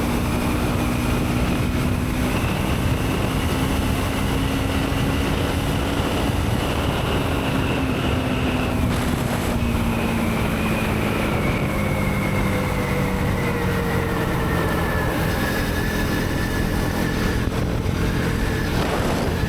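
Motorcycle engine running at speed under a steady rush of noise. Its pitch creeps up slowly, breaks off briefly about nine seconds in, then falls gradually as the bike eases off.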